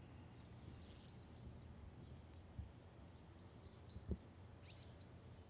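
Faint outdoor ambience with a small bird chirping in two short runs of rapid high notes. Two soft low thumps come about halfway through and near the end.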